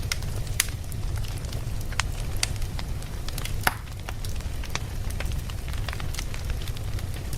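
Wood fire burning, with irregular sharp crackles and pops over a steady low rumble of the flames; one louder pop comes a little past halfway.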